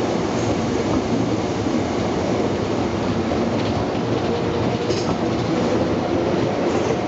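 Tobu 9000 series electric commuter train passing slowly: steady rumble of wheels on track. Brief faint high wheel squeals about half a second in and again about five seconds in, as the cars run on the curve.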